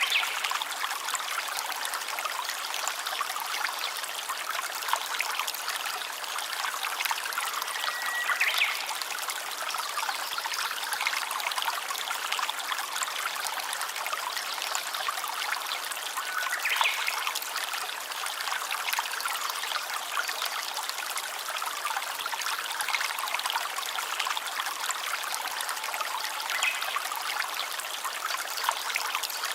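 A stream of water trickling and running steadily, with a few brief high chirps about a third and two thirds of the way through and near the end.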